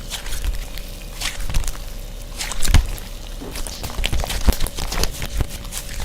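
Slime being squished and pressed by hand, making irregular wet clicks and small pops, with a few louder pops about a second in, near the middle and toward the end.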